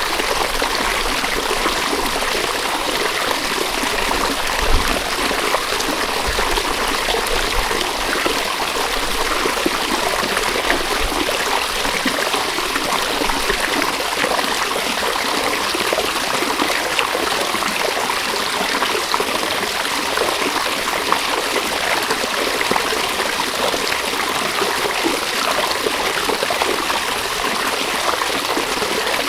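A river flowing, a steady rush of running water. A low rumble sits under it during the first half.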